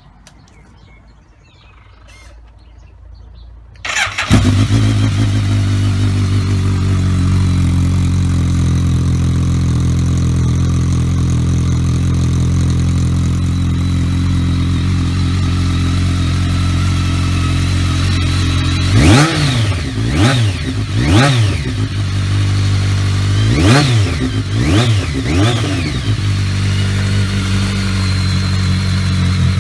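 BMW K1200R's inline-four engine starting about four seconds in and idling steadily through a Staintune stainless-steel slip-on exhaust with its baffle removed. Past the middle it is blipped six times, in two groups of three quick revs, each dropping back to idle.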